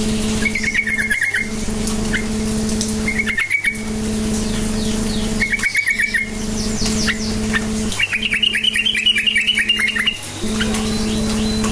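Yellow-vented bulbul calling in short runs of rapid, chattering chirps, one every two to three seconds, with a longer run from about eight to ten seconds in. A steady low hum lies underneath.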